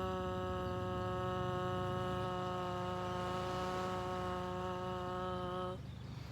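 A woman's voice chanting one long, continuous "ah" held on a single steady pitch, which stops near the end.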